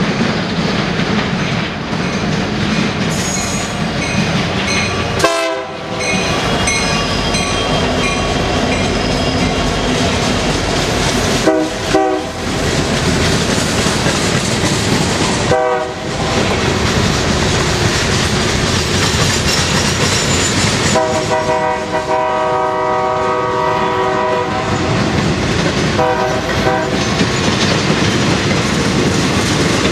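Freight train rolling by with a steady rumble and clatter of wheels on the rails, while a diesel locomotive's air horn sounds several short blasts and one long blast about two-thirds of the way through.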